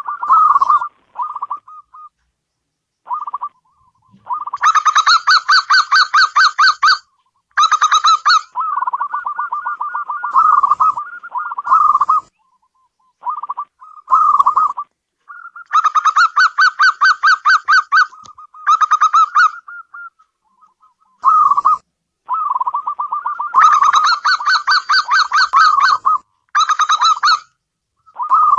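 Zebra dove (perkutut) cooing: a series of rapid, rippling coo phrases, each lasting one to three seconds, repeated with short breaks between.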